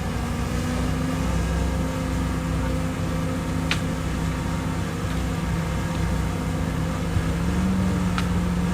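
Heavy diesel earthmoving machinery running steadily, its engine note stepping up slightly near the end, with two brief high chirps over it.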